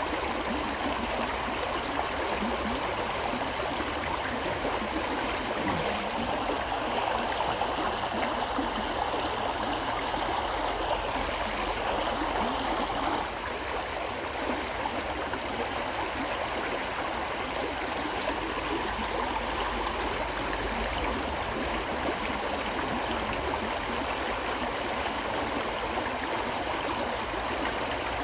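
River water flowing steadily over rocks in a continuous rushing wash. Its level dips slightly about halfway through.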